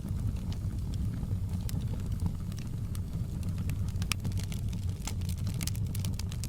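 Wood fire crackling: scattered sharp pops and snaps over a steady low rumble of flames, the pops coming thicker from about four seconds in.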